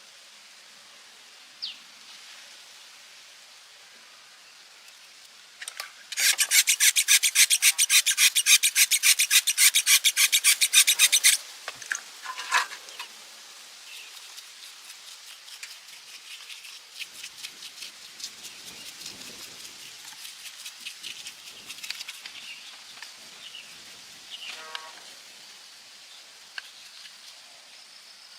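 Fast, rhythmic hand scraping strokes, about seven a second, loud for about five seconds a few seconds in, then lighter and uneven.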